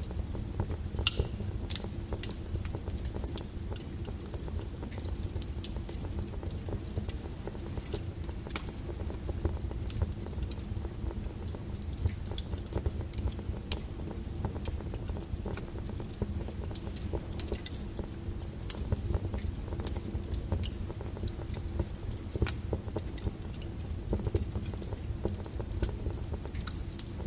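Wood fire burning in a fireplace: irregular crackles and pops from the logs over a low, steady rumble of the flames.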